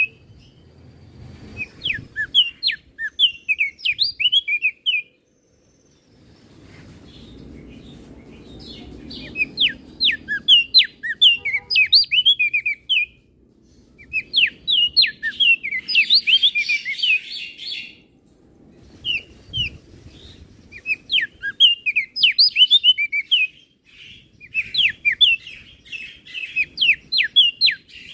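Crested darkeye (opior jambul) singing: phrases of quick, sharp, downslurred chirps lasting a few seconds each, broken by short pauses.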